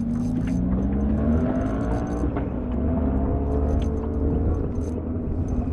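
A small motor-like hum rising slowly in pitch, over a steady low rumble.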